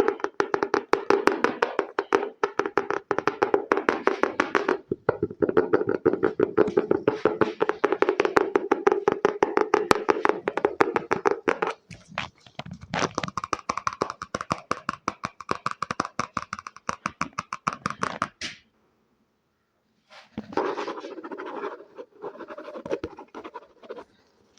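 Fast ASMR scratching and tapping by hand on an object, many rapid strokes a second. About halfway through it changes to a brighter, crisper scratch. A pause of about two seconds follows, then a shorter spell of scratching near the end.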